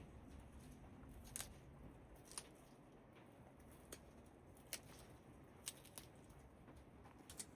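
Near silence: faint background with a handful of soft, scattered clicks and ticks at irregular intervals.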